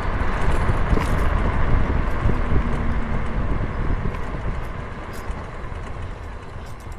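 Wind buffeting the microphone and road noise while riding along a street, a dense rushing rumble that eases off about five seconds in.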